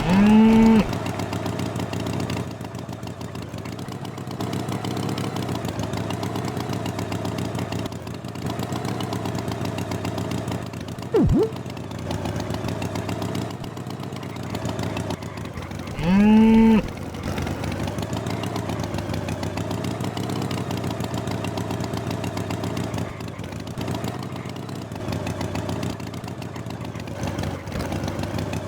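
Cartoon cow mooing twice, short rising calls at the very start and again just past the middle, over a steady engine-like drone. A single sharp click comes a little before the middle.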